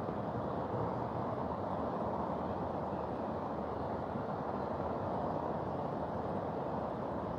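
Mountain river rushing over its bed: a steady, unbroken noise of flowing water.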